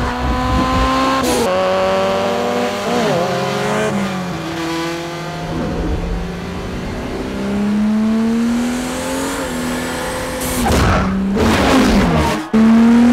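Race car engines at full throttle, several at once, each climbing in pitch through a gear and dropping back at the shift. About ten and a half seconds in, a loud rushing whoosh sweeps past.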